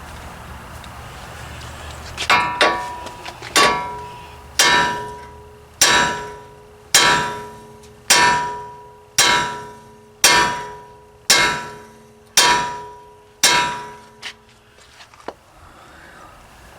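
Steel hammer pounding on a stuck truck kingpin, about eleven heavy blows roughly a second apart, each ringing metallically. The pin is not budging.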